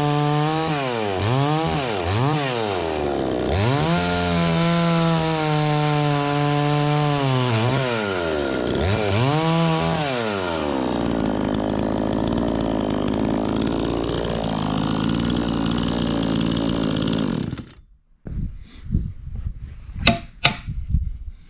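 Two-stroke petrol chainsaw running hard, its engine speed dipping and climbing back several times in the first half, then running more steadily. It cuts off suddenly about 18 seconds in, followed by a few sharp knocks and clatters.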